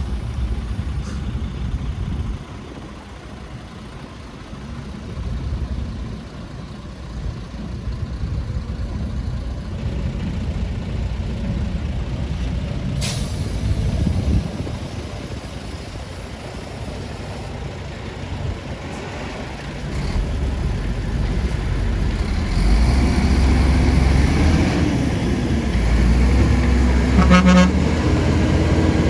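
Heavy diesel construction machinery running with a low rumble that grows louder about two-thirds of the way through. There is a single sharp clank about halfway and a brief horn toot near the end.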